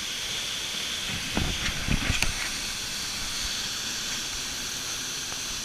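Large waterfall rushing with a steady hiss. A few short bumps come about one and a half to two seconds in.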